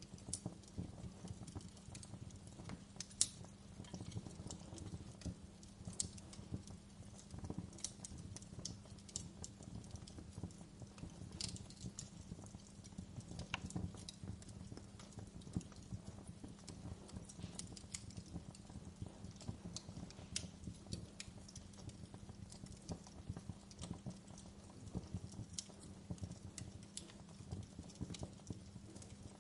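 Burning logs in a fireplace crackling and popping, with frequent sharp snaps and a louder pop about three seconds in.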